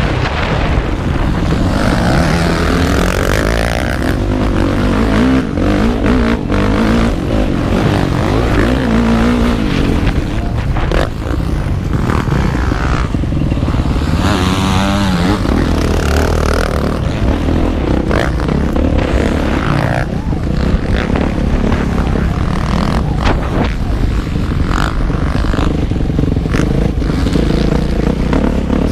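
Motocross motorcycle engine running hard as it is ridden on a dirt track, its pitch rising and falling with the throttle, with frequent knocks and clatter throughout.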